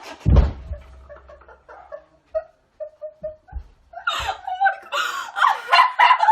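A heavy thump about a third of a second in, then people laughing in bursts from about four seconds in.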